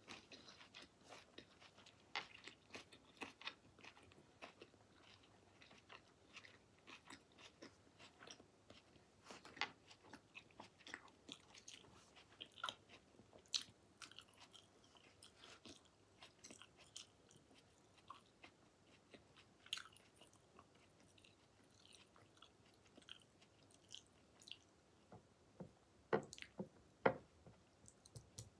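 A person chewing sashimi close to the microphone: faint, scattered wet mouth clicks and smacks, with a couple of louder clicks near the end.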